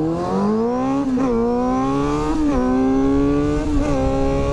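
Motorcycle engine accelerating through the gears: the pitch climbs, drops briefly at an upshift about a second in and again near two and a half seconds, then holds steadier before another shift near the end.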